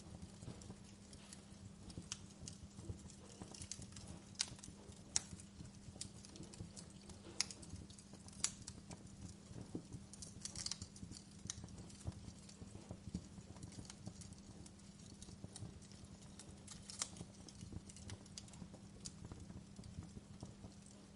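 Wood fire crackling in a fireplace: irregular sharp pops and snaps, a few louder ones, over a low steady hum.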